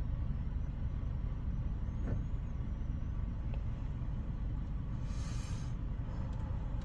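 Ryko Softgloss MAXX 5 soft-touch car wash heard from inside the car: a steady low rumble, with a brief hiss of spray about five seconds in.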